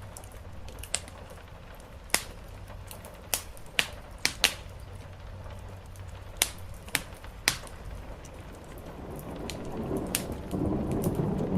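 Wood fire crackling with a dozen or so sharp, irregular pops over a steady hiss of rain. A low rumble of thunder swells in near the end.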